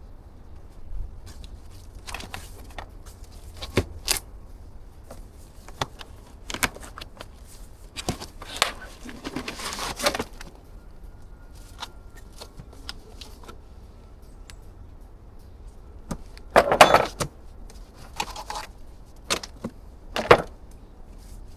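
Scattered metallic clinks and knocks from handling tools or metal parts, with one louder clatter about three-quarters of the way through.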